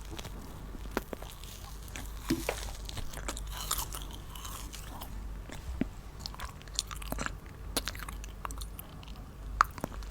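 Close-up crunching of candy: irregular crisp clicks and crunches, with a brief rustle about two to four seconds in.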